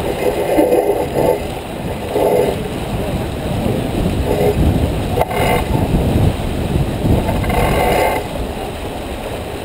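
Wind rumbling on the microphone and water rushing along the hull of a J24 sailboat under way, with a few short swells of louder rushing.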